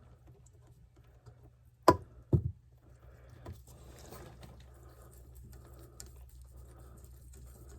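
Hand work on CPVC water pipe: two sharp clacks about half a second apart roughly two seconds in, then faint scraping and handling sounds.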